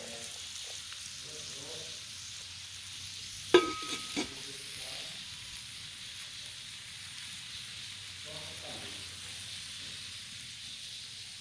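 Steady hissing noise, with a sharp clank that rings briefly about three and a half seconds in and a lighter knock just after it.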